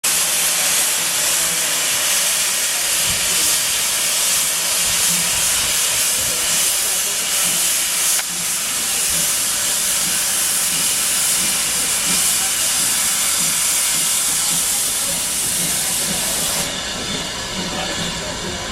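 Steam locomotive letting off steam: a loud, steady hiss that keeps up throughout.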